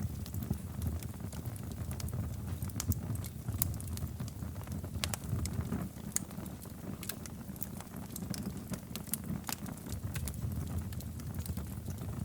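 Wood fire burning in a fireplace: a low steady rumble of flames with frequent irregular crackles and sharp pops.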